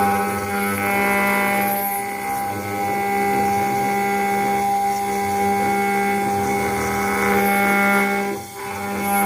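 CNC router engraving machine's spindle running steadily as its cutter mills a brass plate, with a constant whine and a higher ringing that wavers as the cut goes on. The sound dips briefly about eight and a half seconds in.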